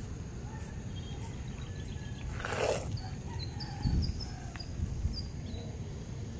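Birds chirping, with a quick run of short high chirps from about three and a half to five seconds in, over a steady low rumble. One harsh, noisy call stands out about two and a half seconds in.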